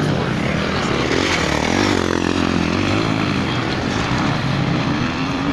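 Motorcycle engines running, their pitch wavering up and down.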